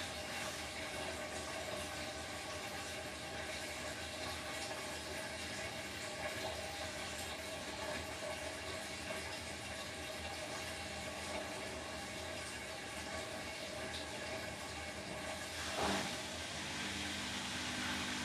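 Beko WTK104121W washing machine mid-cycle on a delicates programme, with a steady rush of water. A sharp click comes near the end, followed by a low hum.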